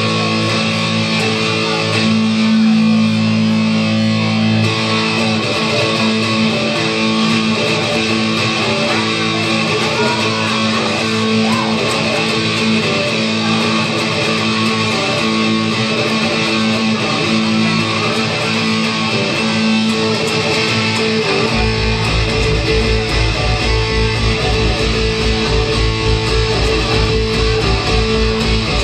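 Live rock band playing an instrumental passage led by guitars, with held and strummed chords. About three-quarters of the way through, a low, rapidly pulsing bass part comes in.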